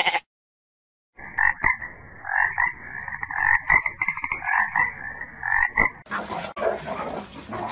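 A water frog croaking: a run of quick, rattling croaks that starts about a second in and goes on for some five seconds. At the very start the last moment of a goat's bleat is heard.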